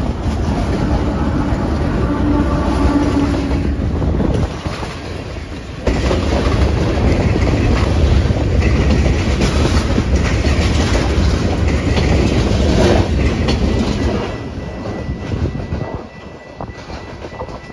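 A CSX ethanol freight train passing close by. For the first few seconds its diesel locomotives give a steady engine drone. From about six seconds in, the tank cars roll past loudly with rhythmic wheel clickety-clack over the rail joints, and the sound fades over the last few seconds.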